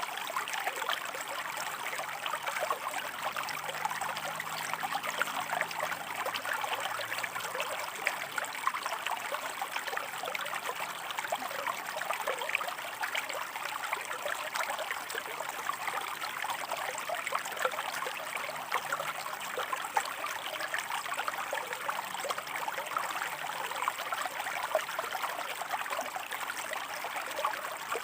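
Shallow stream water flowing and splashing over rocks: a steady, even rush of many small bubbling splashes.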